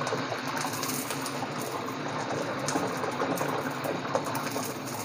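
Eggplant slices frying in hot oil in a wok, a steady sizzle with small crackles, over a steady hum from the gas range.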